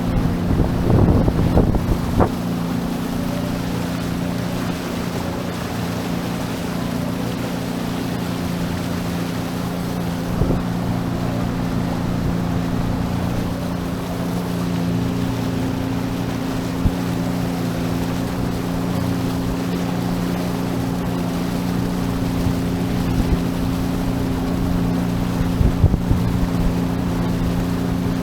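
Sea-Doo Fish Pro personal watercraft engine running at a steady cruising speed, with water and wind noise around it. There are a few brief knocks near the start and twice later on.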